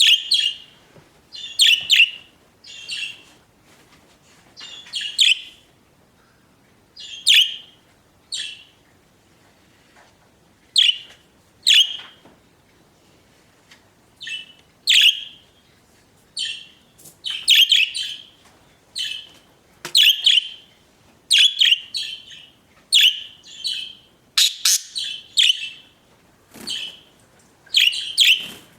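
Pet budgerigars chirping: bursts of short, high chirps, a few seconds apart at first and coming close together from about halfway.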